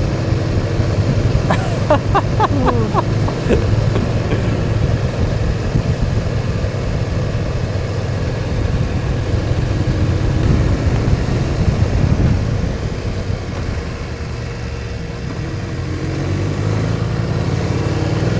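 BMW R1200 boxer-twin motorcycle engine running steadily under way, with wind and road noise. About two seconds in there is a brief cluster of ticks and short gliding tones.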